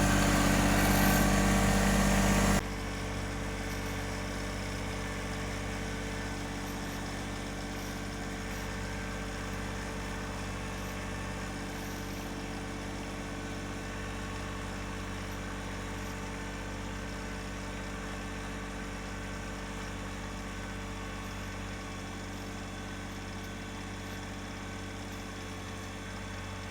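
John Deere 1026R compact tractor's three-cylinder diesel engine running steadily under a plough. It is loud for the first two and a half seconds, then drops suddenly to a quieter, even drone that fades slightly towards the end.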